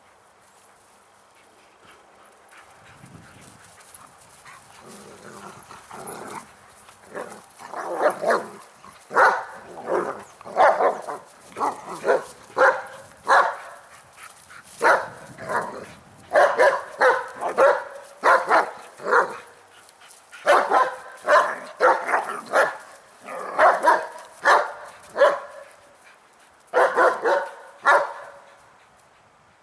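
Dog barking over and over in quick runs of short barks, after a few seconds of fainter, lower sounds at the start.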